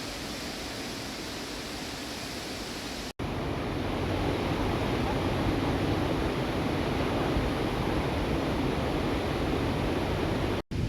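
Waterfall rushing, a steady roar of falling water. It cuts out for an instant about three seconds in and again near the end, and the middle stretch is louder and deeper.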